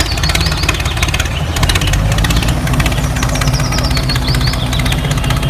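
A small engine running steadily, with a fast, even beat and a faint high whine that drifts in pitch.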